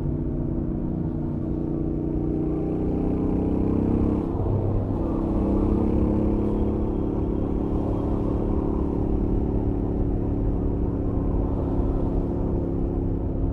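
Royal Enfield Interceptor 650's 648 cc parallel-twin engine through its stock exhaust, running at a steady highway cruise. About four seconds in there is a brief break in the engine note, after which it settles again at a slightly different pitch.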